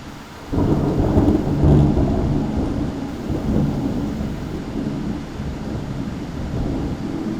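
A close thunderclap breaks out suddenly about half a second in and rolls on as a long, deep rumble that slowly fades.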